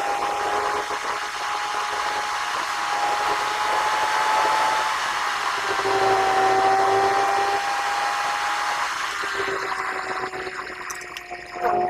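A car being driven: a steady whine with a hiss of road and wind noise.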